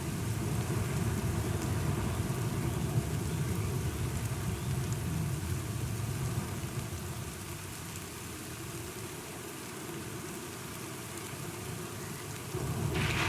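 Thunderstorm: steady rain with a low rolling rumble of thunder that fades through the middle. Near the end, the storm sound swells suddenly, louder and brighter.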